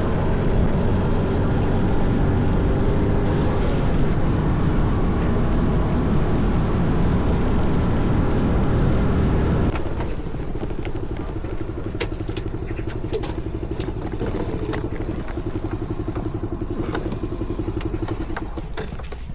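Daelim Citi Ace motorcycle's small single-cylinder engine running under way, mixed with wind noise. About ten seconds in, the sound changes abruptly to a quieter, evenly pulsing engine note with scattered clicks.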